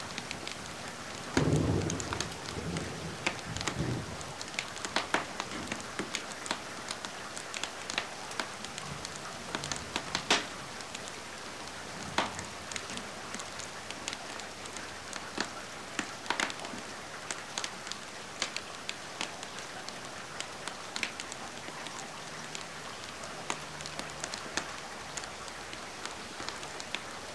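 Steady rain with a wood fire crackling in sharp, irregular pops. A louder low rumble comes in about a second and a half in and lasts a couple of seconds.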